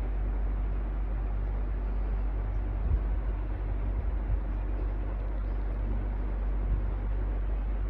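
Electric fan running steadily: an even rushing noise over a strong low hum, with a couple of brief low bumps in the middle.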